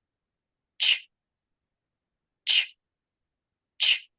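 A woman's voice saying the English "ch" sound on its own three times, each a short, sharp hiss.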